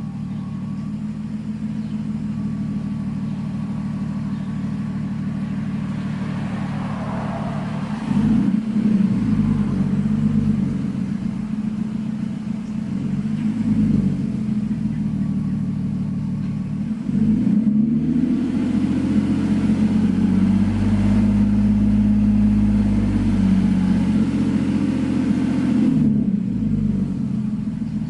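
Lexus GS300's 2JZ-GE inline-six running through a muffler-delete exhaust: idling, revved briefly twice, then held at a raised engine speed for about eight seconds before dropping back to idle.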